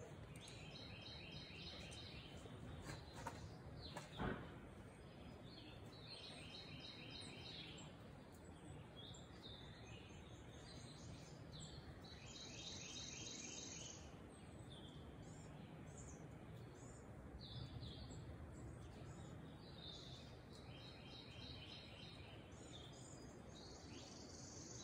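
Faint birdsong: short phrases of quick repeated high notes every few seconds over a quiet outdoor hush, with one sharp click about four seconds in.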